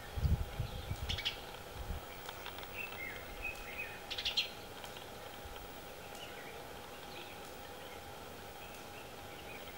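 Small birds chirping in outdoor ambience: short calls, the loudest about a second in and again about four seconds in, over a faint steady hum. Some low rumbling thumps in the first two seconds.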